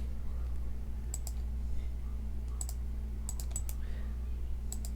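Sharp clicks from working a computer's keys or mouse, mostly in close pairs, coming every second or so over a steady low electrical hum.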